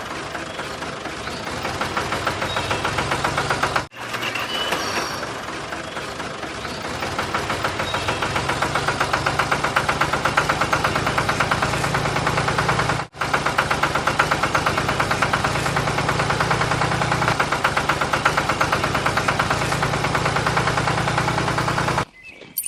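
A tractor-like engine sound running steadily with a rapid chugging pulse. It cuts out briefly twice and stops just before the end.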